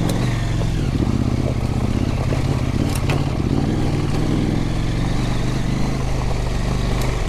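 Husqvarna Norden 901 adventure motorcycle's parallel-twin engine running steadily, with a couple of brief sharp clicks.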